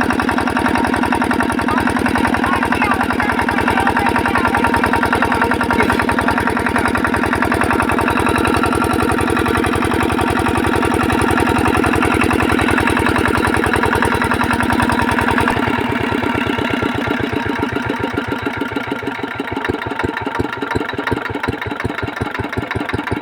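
8 hp single-cylinder diesel engine driving a water pump, running with a rapid, even beat from its firing strokes. About two-thirds of the way through, the beat slows and turns uneven as the engine loses speed, a sign that it is struggling to hold its running speed.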